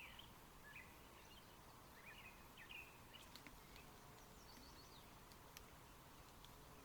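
Near silence with faint, short bird chirps every second or so.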